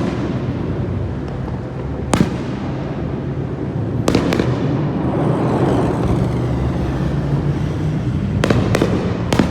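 Aerial fireworks bursting overhead: a string of sharp bangs, some in quick pairs, over a steady noise that is loudest in the middle.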